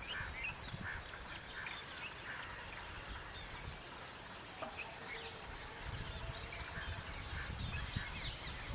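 Short bird chirps scattered all through, over a steady high-pitched drone and a low rumble.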